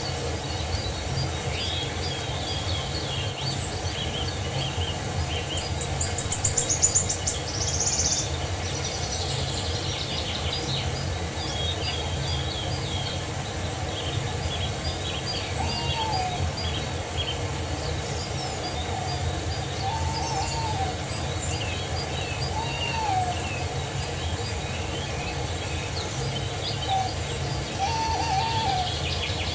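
Wild birds singing and chirping together, with a loud high trill about seven seconds in. Short low hooting calls repeat four or five times in the second half, over steady low background noise.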